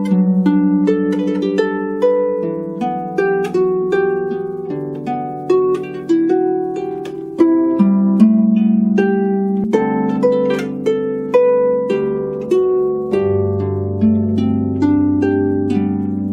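Solo harp playing a flowing melody, each plucked note ringing and fading over lower held notes. A deep bass note comes in about two-thirds of the way through and sustains under the melody.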